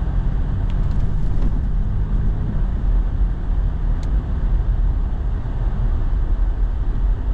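Four-wheel-drive truck driving, heard from inside the cab: a steady low engine hum under even road and tyre noise, the engine hum easing off after about two and a half seconds.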